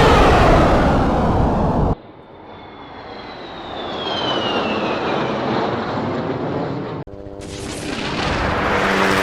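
A series of aircraft flyby sound effects joined by hard cuts. The loud tail of one pass with its pitch sweeping down cuts off about two seconds in. A jet then comes in with a whine falling in pitch, cut off about seven seconds in, and another aircraft starts building with a steady low hum.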